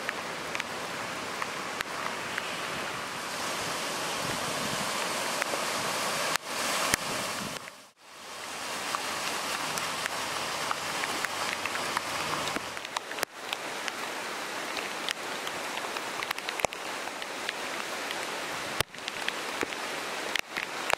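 Heavy rain pouring onto a flooded street, a steady hiss that drops out briefly about a third of the way in. A vehicle's engine is faintly heard under the rain around the middle.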